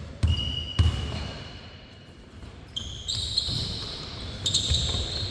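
A basketball bouncing twice on the court, then long high-pitched squeaks of sneakers on the floor during play.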